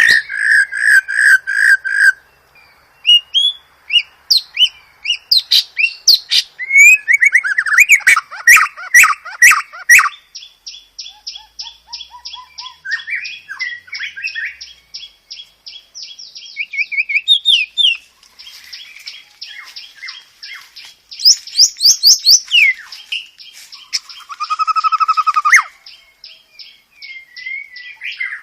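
White-rumped shama (murai batu) song: a varied run of loud whistled phrases, sharp chips and squawky notes, with a long fast trill of repeated notes in the middle, as used in masteran tutoring recordings.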